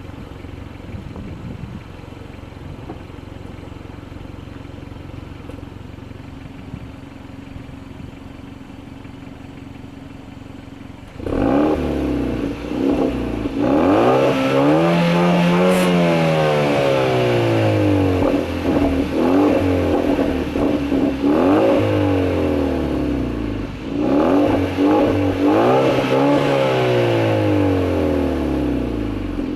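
Exhaust of a 2015 Kia Forte Koup 1.6T's turbocharged four-cylinder, stock with the resonator deleted, idling steadily. About eleven seconds in it is revved in a series of throttle blips, the pitch rising and falling each time, with one longer rev near the middle.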